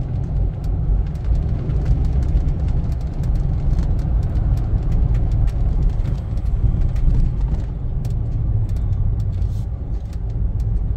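Car driving along: a steady low rumble of engine and road noise, with faint scattered clicks and rattles throughout.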